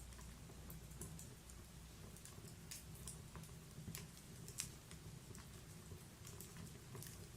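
Wood log fire crackling faintly: irregular small pops and snaps, with one sharper pop a little past halfway, over a low steady rumble of the burning.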